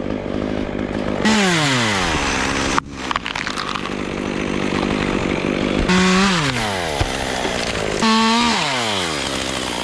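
Chainsaw running, its engine speeding up three times and each time falling back down in pitch as the throttle is released or the chain bites into the wood.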